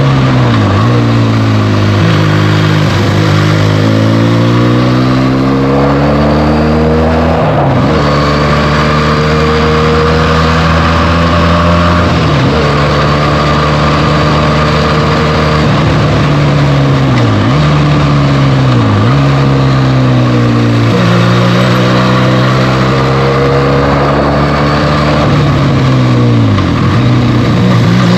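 Benelli TNT 300's twin-cylinder engine through its stock exhaust, the bike being ridden: the engine note climbs slowly, holds steady for stretches, and dips sharply and briefly several times as the revs change.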